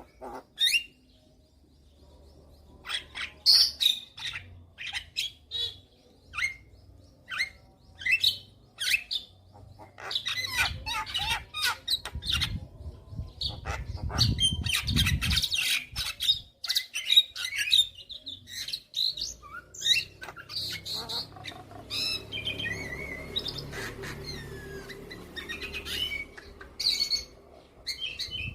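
Javan myna (jalak kebo) calling: short harsh chirps and squawks, a few seconds apart at first and then coming in quick, busy runs from about ten seconds in. A low rumble sits under the calls in the middle.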